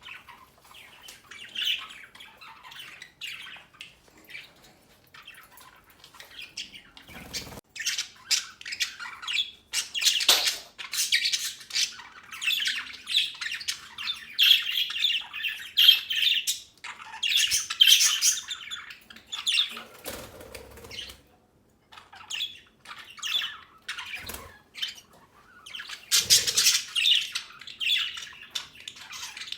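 A flock of budgerigars chattering: a continuous run of rapid chirps, squawks and warbles with no pause, rising and falling in loudness, and a few low thuds in between.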